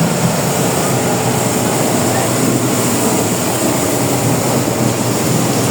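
Steady drone of a fishing boat's engine under way, mixed with rushing wind and water noise.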